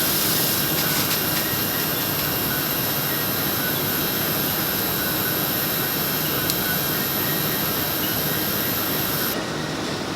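Steady running noise from button-polishing machinery, with a high hiss over it that cuts off suddenly near the end.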